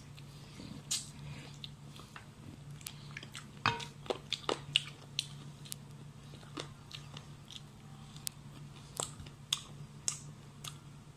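Close-up eating sounds: chewing, lip smacks and sharp clicks as food is bitten and picked apart by hand, with the loudest cluster about four seconds in. A steady low hum runs underneath.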